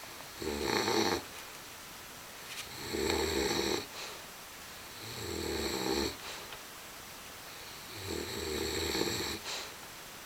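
English bulldog snoring: four snores, one about every two and a half seconds, with quiet breathing between them.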